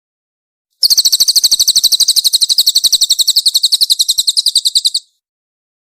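Cililin songbird singing a fast, tightly packed string of high chirps, about fourteen a second, starting abruptly about a second in and stopping after about four seconds.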